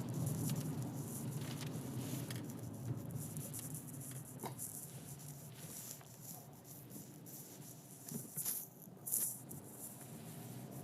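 Heard from inside a moving car in rain: a steady low rumble from the road and engine, with rain pattering and rattling on the car. Two louder swells of hiss come near the end.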